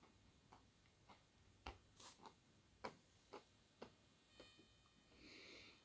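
Faint close-up chewing with the mouth closed: soft wet mouth clicks about twice a second, then a short breathy hiss near the end.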